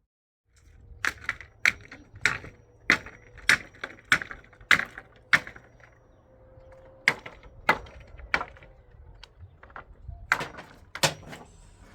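Hammer blows at a steady rhythm, about one every 0.6 seconds, each a sharp ringing strike. A first run of eight strikes stops halfway through, and a second run starts about a second and a half later.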